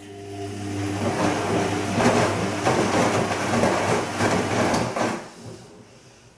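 Bosch Serie 2 VarioPerfect washing machine on its gentle Silk 30 °C programme turning its drum in one wash stroke. The motor hum comes in and builds over about a second, with the laundry and water swishing in the drum. It dies away about five seconds in as the drum stops for its pause.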